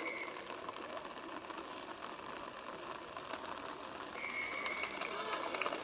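Rugby referee's whistle: a short chirp at the start, then a sharper blast of under a second about four seconds in, over a steady murmur of field noise.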